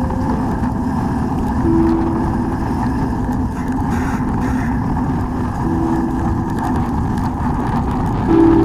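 Wind buffeting and rolling rumble from a mountain bike ridden on a dirt trail, played back sped up threefold. A few brief steady tones rise above it, once near two seconds in, once about six seconds in, and again at the end.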